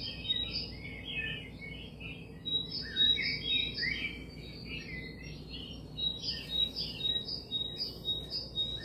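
Many small birds chirping at once in a dense, overlapping chorus of short high calls, with a thin steady high tone running through it.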